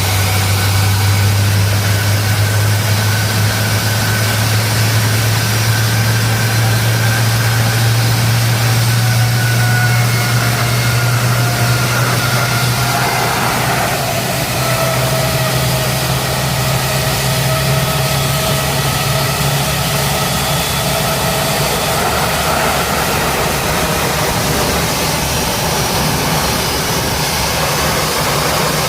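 Two aircraft jet engines running steadily, heard close up: a loud even rumble with a high whine whose pitch drifts slowly down.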